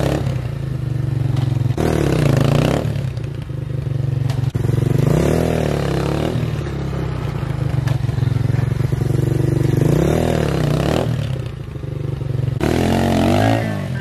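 Apollo 250 dirt bike's engine running at idle and revved gently about four times, each rev rising and falling back.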